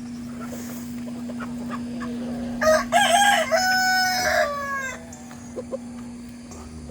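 A rooster crows once, a call of about two seconds starting a little under three seconds in, its drawn-out last note falling away. A steady low hum runs underneath.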